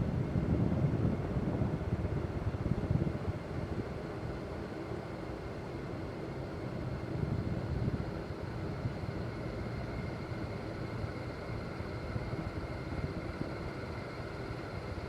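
1983 Casablanca Panama five-blade ceiling fan, an early Slumber Quiet model, running steadily: a low rush of moving air, with a faint steady high tone.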